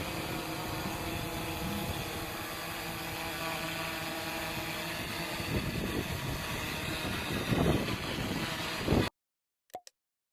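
DJI Mavic 2 Zoom quadcopter in flight, its motors and propellers buzzing steadily with a whine of several tones, swelling louder a few times in the second half. The sound cuts off suddenly about nine seconds in, followed by a couple of faint short clicks.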